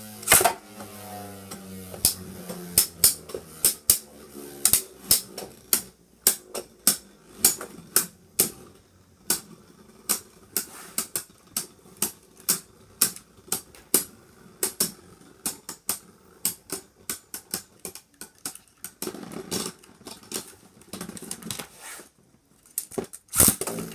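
Two Beyblade Burst spinning tops, Jaeger Yggdrasil and Neptune, clashing as they battle in a stadium: a long run of sharp clicks and knocks, irregular, a few a second. The hits are loudest about half a second in and again near the end.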